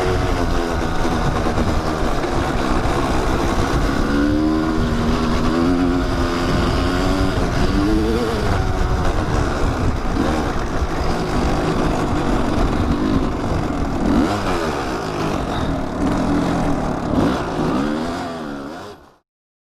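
Kawasaki dirt bike engine under way on a sandy trail, revving up and down as the rider works the throttle and gears. It fades out just before the end.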